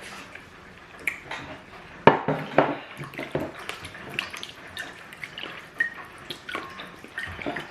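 Mukbang eating sounds: wet chewing and lip-smacking on soft boiled yam and plantain with stew, with scattered sharp clicks and a couple of louder knocks about two seconds in.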